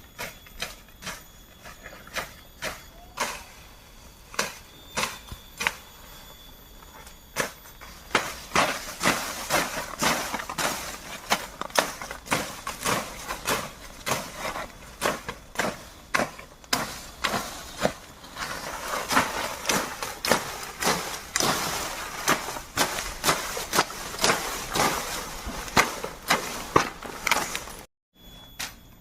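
Bamboo being chopped, a run of sharp strikes, sparse at first and then about two a second from roughly eight seconds in. Steady high insect drone underneath.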